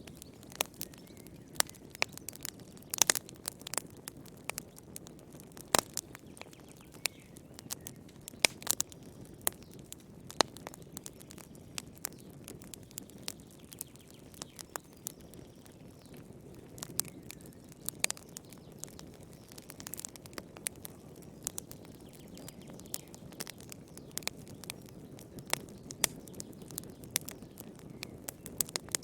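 Fire in a fireplace crackling, with frequent irregular sharp pops and snaps over a low steady rush of the flames.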